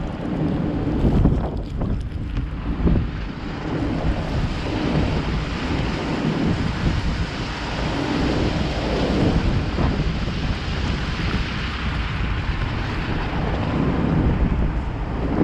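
A car driving on a snow-covered road: a steady rumble of tyres and engine, with wind buffeting the microphone.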